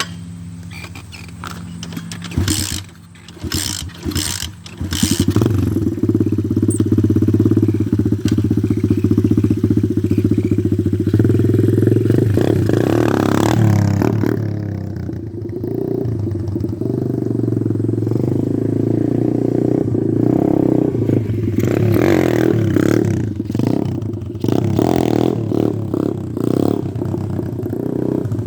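Single-cylinder pit bike engine running, with a few knocks about three seconds in, then louder with repeated revs that rise and fall in pitch as the bike is ridden.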